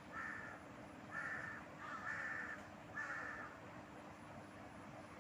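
A crow cawing, a run of harsh caws about a second apart that stops about three and a half seconds in.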